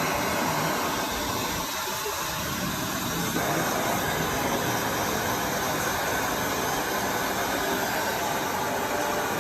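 Steady white noise, an even machine-like whoosh with no clear rhythm or tone, dipping slightly around two seconds in.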